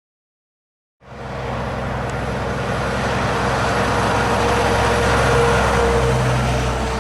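Scania G420 truck's 420 hp straight-six diesel running on the road, with a steady engine note and tyre and road noise. The sound fades in about a second in, grows to its loudest a little past the middle and eases off near the end.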